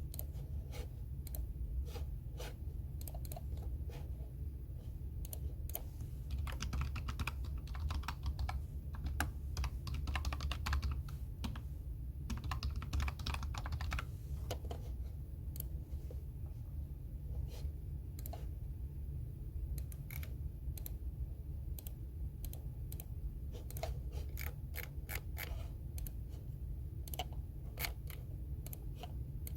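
Typing on a computer keyboard: irregular runs of key clicks, busiest in a couple of quick flurries near the middle, over a steady low hum.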